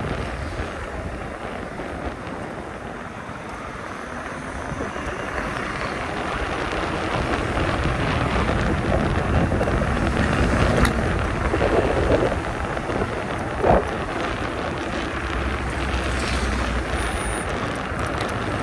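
Wind rushing over the microphone with the hum of 20x4 fat tires rolling on the ground during a moving e-bike ride. A couple of short knocks from bumps come past the middle.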